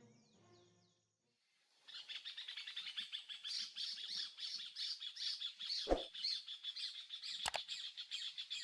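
Background music fades out within the first second. After a short silence, a dense chorus of rapid, high-pitched bird chirps starts and keeps going, with a dull knock about six seconds in and a sharp click near the end.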